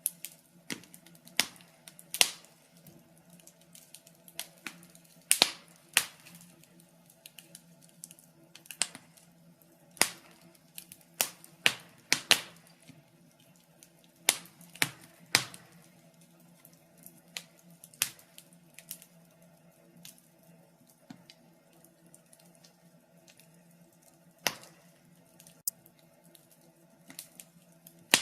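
Wood fire burning in a fireplace, crackling with irregular sharp pops and snaps, several loud ones clustered in the first half, over a faint steady low hum.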